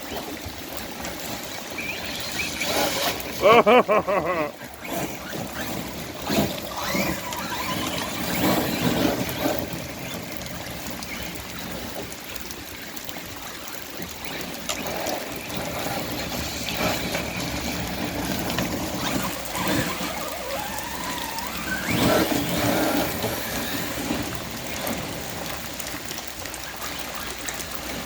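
Arrma Kraton 6S RC monster truck driving on wet ground: its brushless electric motor whines up and down with the throttle, loudest about four seconds in and again near 22 seconds, over the wash of tyres through water.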